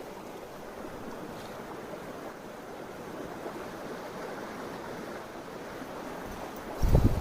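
Mountain stream water rushing steadily. Near the end a brief, loud low buffet hits the microphone.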